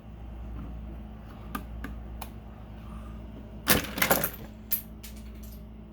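Plastic Lego pieces clicking and clattering as sections of a built model are pressed back together: a few light clicks, then a louder burst of rattling clicks a little past the middle, and two more clicks near the end.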